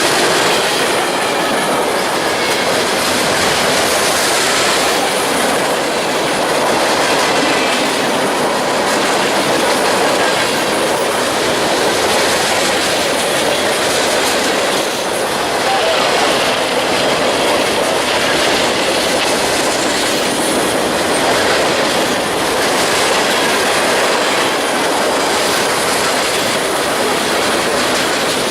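A train passing close by, its railroad cars rolling past steadily with the wheels clattering over the rail joints.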